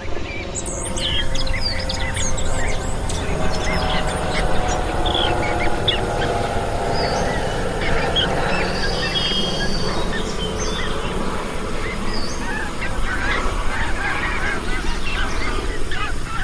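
Birds calling outdoors: a run of low honking calls for several seconds in the middle, over many short, high chirps of small birds and a steady low background rumble.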